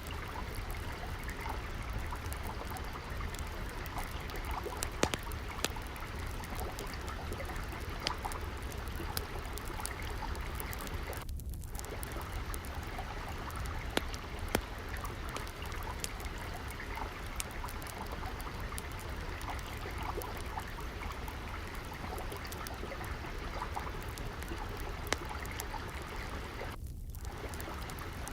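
Steady trickle of flowing water mixed with the scattered sharp snaps and pops of a crackling wood fire.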